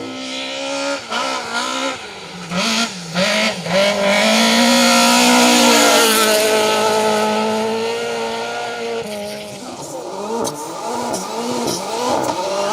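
Rally car engine revving hard as the car comes through, blipping and changing pitch with throttle and gear changes at first, then held at high revs as it passes loudest with a strong hiss over the top, before the note drops and fades as it goes away.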